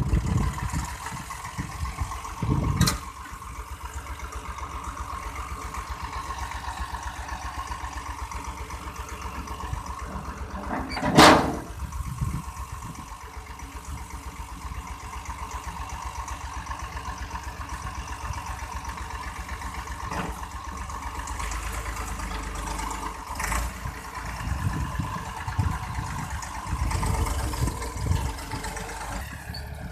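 Tractor engine running steadily with an even pulsing beat, with a brief loud burst of noise about eleven seconds in and heavier low rumbling near the end.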